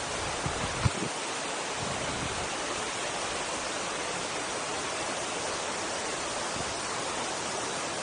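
Steady rushing of a river's flowing water, with a couple of brief soft knocks under a second in.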